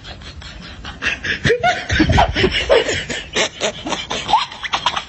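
A person laughing in a run of short snickering bursts.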